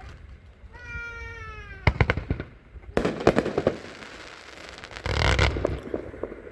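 Consumer fireworks cake of 90 shots firing: a whistling tone falling slightly in pitch about a second in, then sharp cracks, a crackling burst about three seconds in, and another loud burst about five seconds in.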